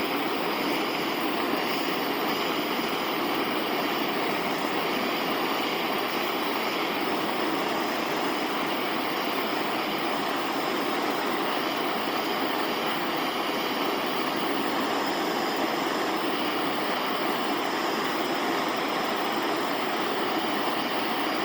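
Handheld gas torch flame hissing steadily while it heats a dent in an air-pressurized two-stroke dirt bike exhaust pipe to push the dent out.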